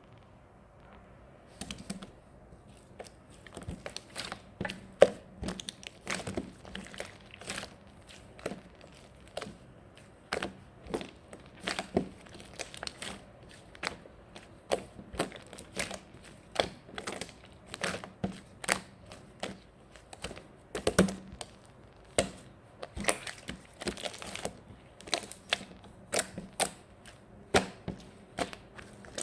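Irregular crinkling and crackling: many short, sharp clicks, often several a second, with a few louder snaps.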